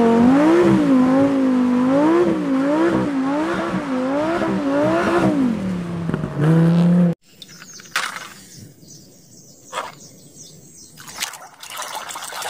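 Lamborghini Huracán Performante's V10 engine revving up and down over and over as the car drifts. About seven seconds in, it cuts off abruptly, leaving light water splashing and a few knocks.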